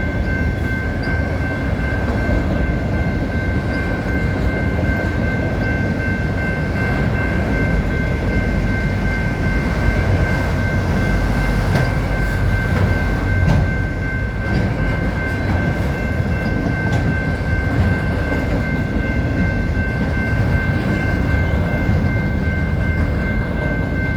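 Autorack cars of a freight vehicle train rolling past: a steady loud rumble with scattered wheel clicks, and two steady high-pitched tones held over it.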